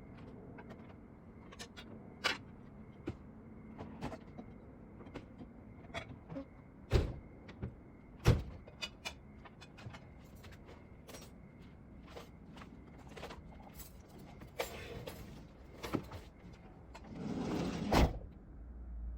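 A run of small clicks and knocks with two sharp thumps about seven and eight seconds in, then a longer sliding, rasping sound near the end that stops with a thump.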